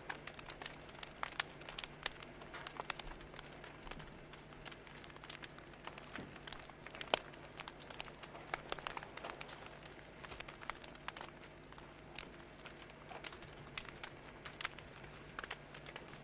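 Fire crackling: quick, irregular pops and snaps over a soft steady hiss, with a faint low hum underneath.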